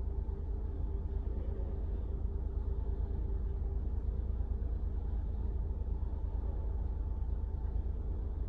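Warm Mini Cooper engine idling steadily, heard from inside the cabin as a low rumble with a faint steady hum, held at idle while the car measures its oil level electronically.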